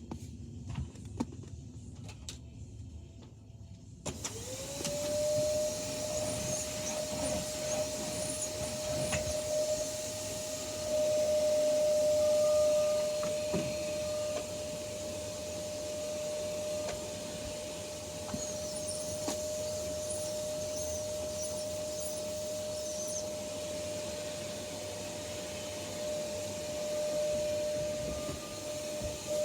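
Vacuum cleaner switched on after a few clicks of handling: about four seconds in its motor spins up, the whine rising quickly to a steady high pitch, then running steadily with the rush of air.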